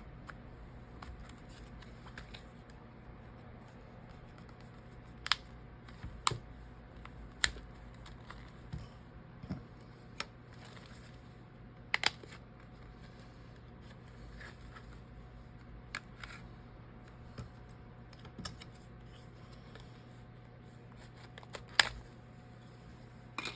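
Scattered sharp clicks and taps of a scraper working at the edge of a Samsung Galaxy A12's screen and frame as the screen is pried off, over a faint steady hum.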